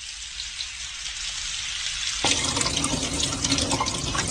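Water running from a tap, a thin hiss at first, then fuller and louder about two seconds in, with splashing.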